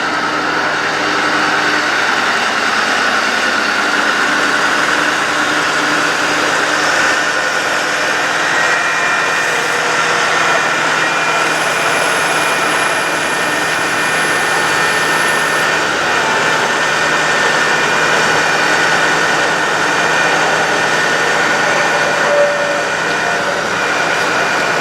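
Bucket truck engine running steadily with the PTO engaged, driving the hydraulic pump of an Altec AT37G boom while the boom is operated from its controls. A steady hum sits over the engine, and a faint high whistle comes in for a few seconds midway.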